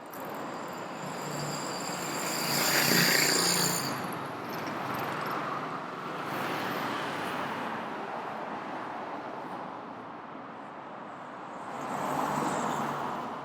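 Road traffic on a city street: a vehicle passes close about three seconds in, with a high whine, and another passes near the end, over a steady background of traffic.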